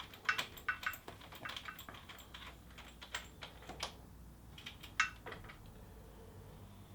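Irregular light clicks and taps of small parts and hand tools being handled while working on a motorcycle, with a sharper click about five seconds in.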